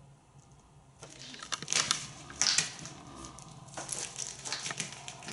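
African grey parrot crunching raw pumpkin with its beak: irregular crunches and snaps that start about a second in.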